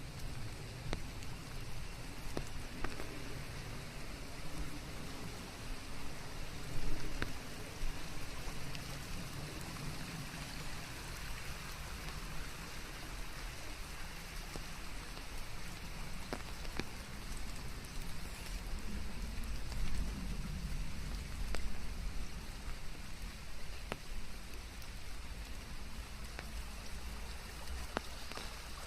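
Steady rain falling, with scattered individual drops striking a surface and a low rumble underneath; the patter swells briefly a few times.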